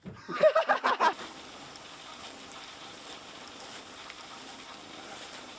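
A person's voice in a few short bursts during the first second, then a steady hiss.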